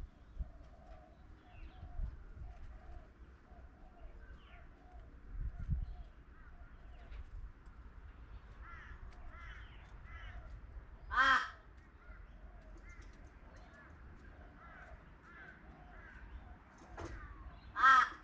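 A crow cawing: two loud single caws about seven seconds apart, with a fainter call just before the second, over continuous faint chirping and warbling of smaller birds.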